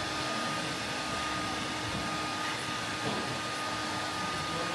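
Steady airy rushing of a blower running, with a faint steady hum under it.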